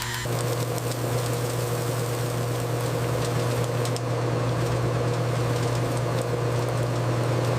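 Machinery running steadily: a constant low hum under an even hiss, with a few faint ticks.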